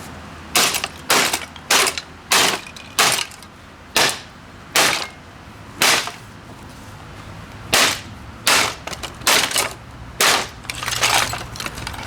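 Sledgehammer blows smashing a 1970s Hoover vacuum cleaner's motor: about fifteen sharp impacts at uneven intervals, coming in quicker runs near the start and over the last few seconds, as the motor breaks apart.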